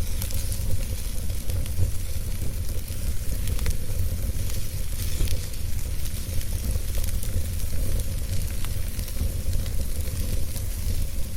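Wood fire burning steadily, with a low rumble of flame and frequent small crackles and pops of the burning wood.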